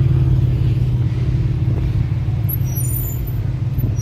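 Car engine idling: a steady low rumble with an even hum.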